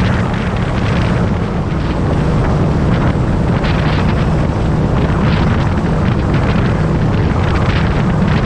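Motorcycle engine running steadily at road speed, under heavy wind buffeting on the camera microphone.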